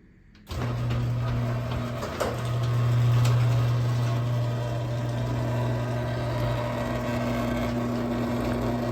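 LiftMaster 1/3 horsepower chain-drive garage door opener starting about half a second in and running steadily as it opens the big door, with a little buzzy hum from its motor.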